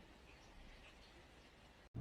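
Near silence: faint background hiss, cut off by a brief dropout near the end, after which a steady low hum begins.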